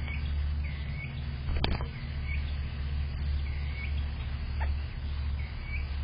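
Short bird chirps repeating about once a second, with a sharp knock about a second and a half in and a softer one near five seconds, over a steady low rumble.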